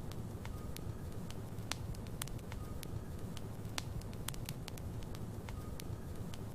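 Logs burning in a fireplace, crackling with frequent sharp, irregular pops over a steady low rumble of the flames.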